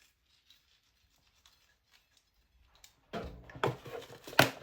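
Seasoning grinder twisted over the food: a run of crunchy grinding strokes about a second apart begins about three seconds in, after a near-silent start.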